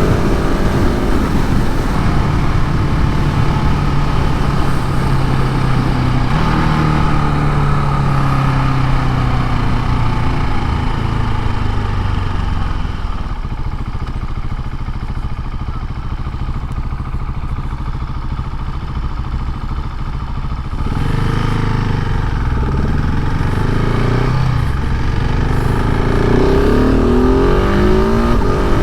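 KTM 690 SMC R's single-cylinder engine on its stock exhaust, ridden on the road: it pulls up through the revs with gear changes, eases off to lower, quieter revs in the middle, then accelerates again, revs climbing near the end.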